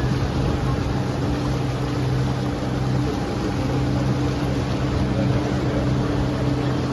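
Tour boat's engine running steadily: a constant low drone with a few even tones that do not change.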